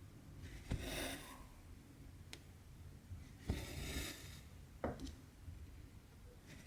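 Needle and cotton thread drawn through cross-stitch fabric: a light tap as the needle passes, then a brief swish of thread pulled through, repeating about every three seconds, with a few faint ticks between.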